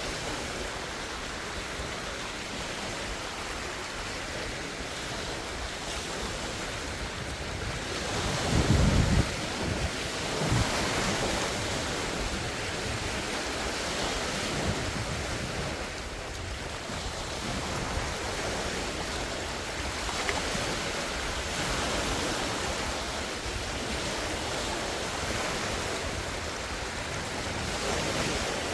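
Large wind-driven lake waves washing in a steady rush, with wind buffeting the phone microphone in a loud low rumble about nine seconds in and again briefly a second later.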